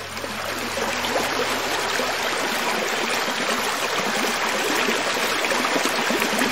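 Hill creek flowing over rocks: a steady rush of running water that fades in over about the first second.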